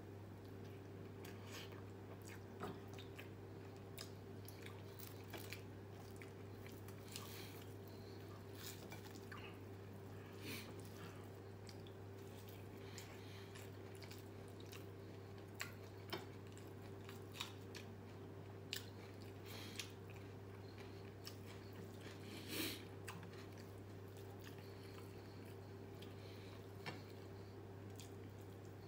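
Close-up mouth sounds of a person eating rice and fried chicken by hand: chewing with scattered small wet smacks and clicks, over a steady low hum.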